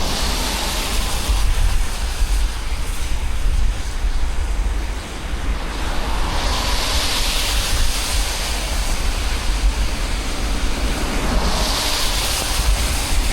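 Wind buffeting the microphone while riding a bicycle in the rain: a heavy low rumble over a steady hiss of rain and wet road, the hiss swelling twice, about halfway through and near the end.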